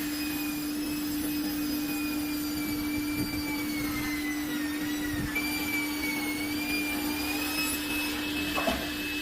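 Electric motor running steadily, with a constant hum under a high whine that drifts slowly in pitch and steps up about five seconds in.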